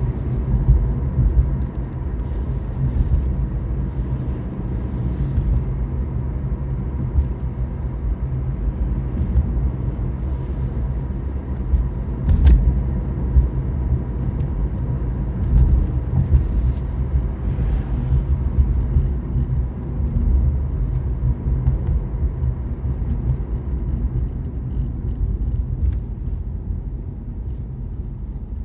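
Car driving on the road, heard from inside the cabin: a steady low rumble of tyres and engine, with a faint steady tone and a few light knocks.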